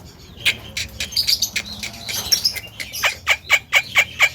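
Male Javan myna chattering: scattered harsh squawks and clicks, then from about three seconds in a quick run of sharp, downward-sweeping chirps, about five a second.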